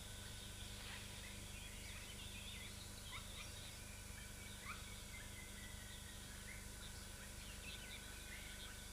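Faint forest ambience: scattered short chirping calls, some sweeping up or down in pitch, over a steady low hum.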